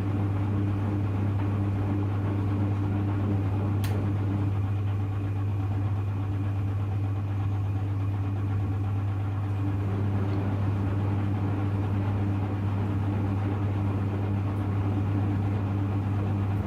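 Hoover Electra front-loading washing machine running on its permanent press cycle, giving a steady low hum that cuts off suddenly near the end.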